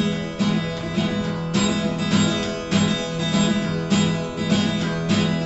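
Acoustic guitar strummed on a single chord in the campfire rhythm, a looping pattern of down and up strokes played at a brisk tempo. Strong strokes recur about twice a second, with lighter ones between.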